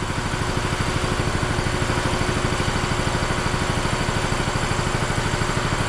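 An engine idling steadily with a fast, even pulse; it cuts off abruptly at the end.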